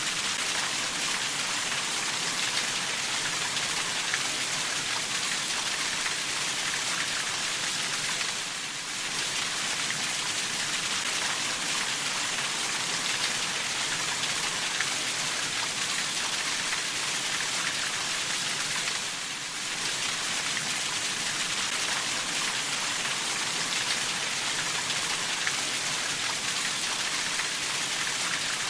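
Steady rainfall: a dense, even hiss of many drops, dipping briefly twice.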